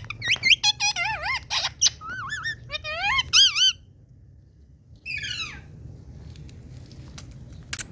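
Indian ringneck parakeet chattering in quick, squeaky warbling calls for about four seconds. After a short pause it gives a brief run of falling calls about five seconds in.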